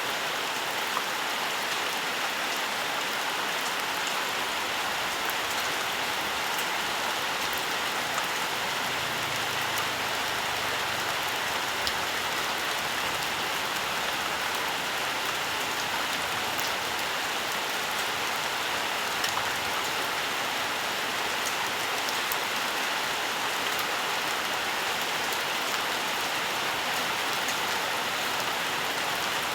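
Steady rain falling in a forest, a constant hiss with many fine droplet patters.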